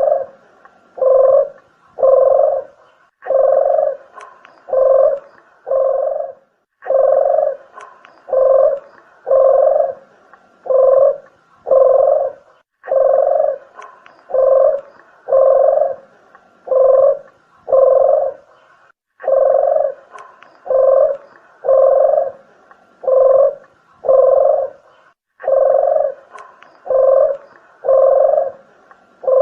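Deruk (puter geni) dove cooing in a steady series of short, rolling coos, about eight to a phrase, with a fresh phrase starting roughly every six seconds: a lure call for attracting the bird.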